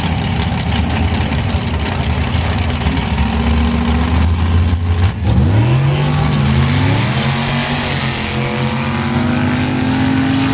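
Sand drag trucks' engines rumbling at the start line, then launching about five seconds in, with engine pitch climbing in steps as they run down the sand strip.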